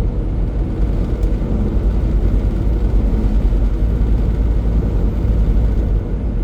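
Semi truck running at highway speed, heard from inside the cab: a steady low rumble of engine and road noise.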